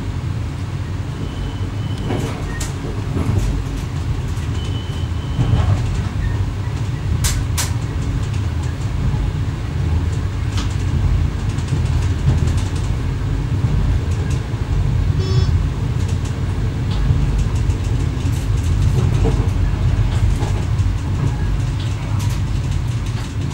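Steady low rumble of an X11 electric multiple unit running on the line, heard from the driver's cab, with scattered sharp clicks and knocks. Two short, high, steady tones sound in the first six seconds.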